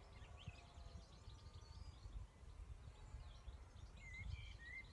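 Faint outdoor ambience of small birds singing, with scattered chirps and a short warbling phrase near the end, over a low wind rumble.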